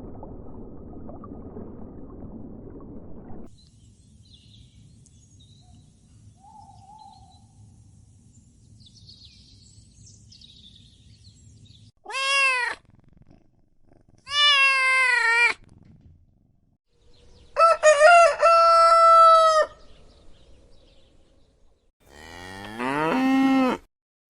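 Four separate loud animal calls, each a second or two long and clearly pitched, come about two to four seconds apart. They are preceded by a low rumbling noise that stops a few seconds in. The third call stutters at its start before holding a steady pitch, and the last one rises in pitch.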